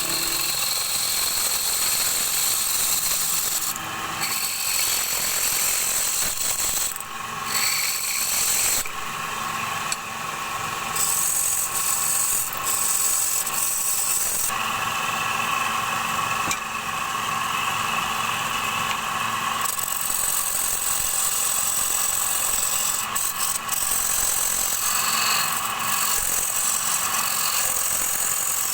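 Wood lathe running while a turning tool cuts into the spinning wooden bowl blank, giving a continuous scraping hiss over the machine's drone. The cutting sound eases off for short spells several times and then resumes.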